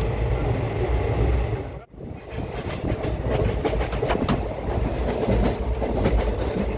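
A moving Indian Railways express train heard from inside the coach: a steady low rumble with clatter. There is a brief break about two seconds in, after which the rumble goes on with a run of sharp clicks and rattles.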